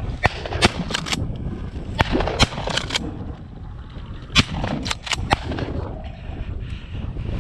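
Shotguns firing at a flushed rooster pheasant: a string of sharp shots, the loudest about half a second, two and a half and four and a half seconds in, with smaller cracks between them.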